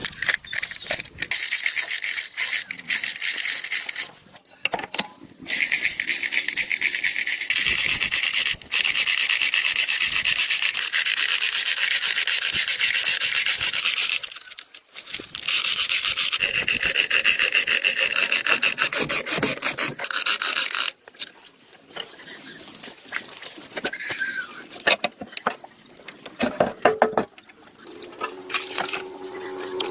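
Rapid, continuous scraping on a hard surface in long runs with short pauses, turning to lighter, scattered scrapes in the last third.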